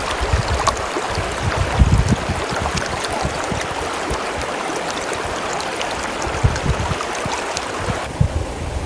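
Steady rush of water, full of small sharp ticks, with low gusts of wind buffeting the microphone. The hiss thins somewhat about eight seconds in.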